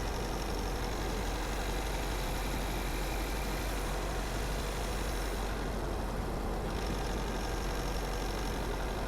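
A car driving, with steady engine and road noise and a low rumble throughout; the higher hiss drops away briefly about six seconds in.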